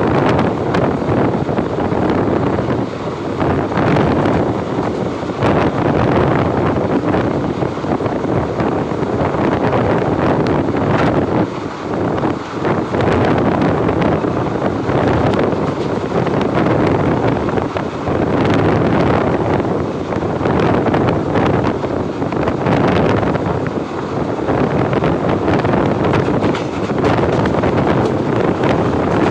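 Train running at speed with its wheels clattering on the rails, under heavy wind rushing over the microphone.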